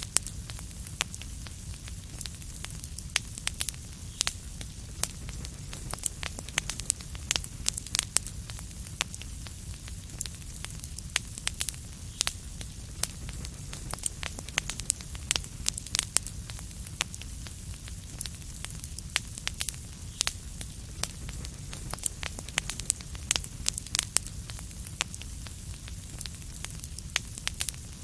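Wood fire crackling in a fireplace: frequent irregular sharp pops and snaps over a steady low rumble and soft hiss.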